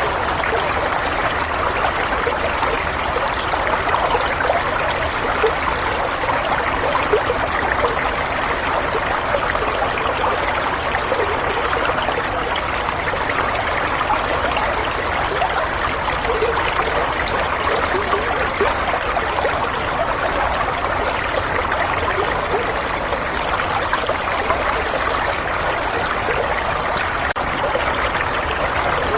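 Running water flowing and trickling steadily, like a small stream, with a fine bubbling texture.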